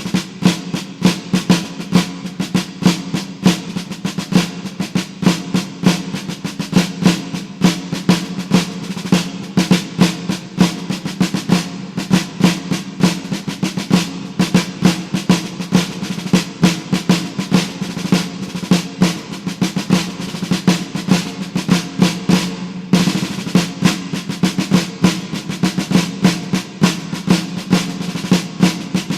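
Music of rapid snare drumming and drum rolls, with a steady low tone underneath.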